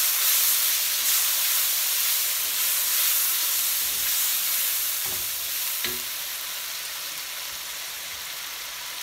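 Onions and spices sizzling in oil and a little water in a nonstick wok while a silicone spatula stirs them; the sizzle is loudest at first and slowly dies down. A couple of soft knocks come about five and six seconds in.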